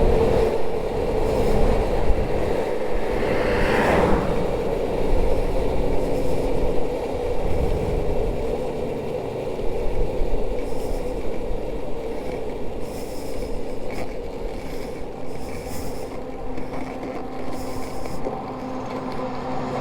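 Suzuki GSX600F's inline-four engine running rough and losing power under way, mixed with wind and road noise. The sound fades gradually as the bike loses power, a fuel-starved engine that the rider puts down to the fuel tap having been off.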